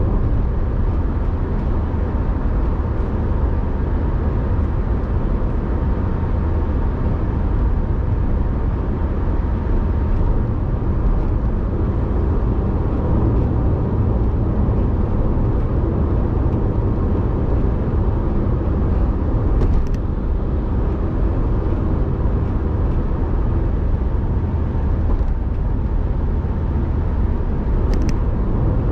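Car driving along: a steady, even low rumble of engine and road noise, with a couple of faint clicks.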